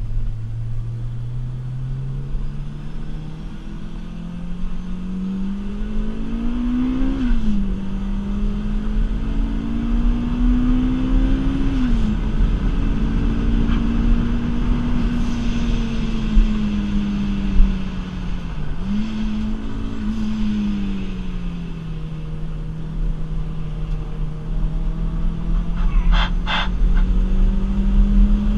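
Rotrex-supercharged 2ZZ-GE four-cylinder engine of a Toyota Celica heard from inside the cabin, pulling hard through the gears. Its pitch climbs and drops sharply at two upshifts, dips once more, then holds fairly steady before climbing again, over a constant road and tyre rumble. There are two short clicks near the end.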